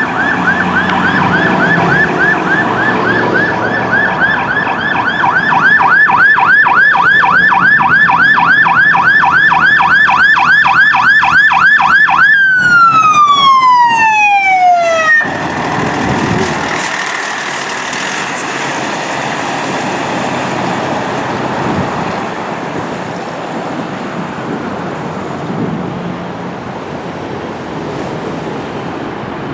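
Fire apparatus electronic siren on a fast yelp, about five sweeps a second. About twelve seconds in it changes to a single tone that glides steadily down and cuts off, leaving steady road traffic and engine noise.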